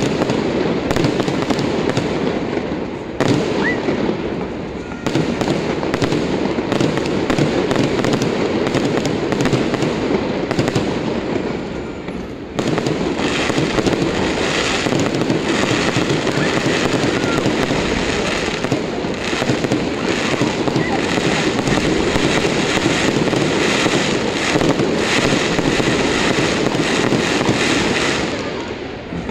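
Aerial fireworks going off in a dense, continuous barrage of crackles, pops and bangs, dipping briefly a few times before picking up again.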